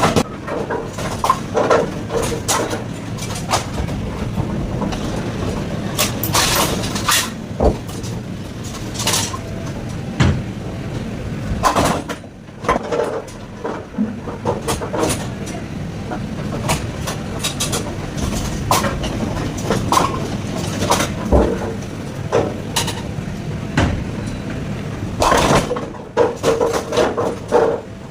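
AMF 8290XL bowling pinsetter running: a steady mechanical drone with repeated clattering knocks of pins and machine parts as it spots and respots the pins.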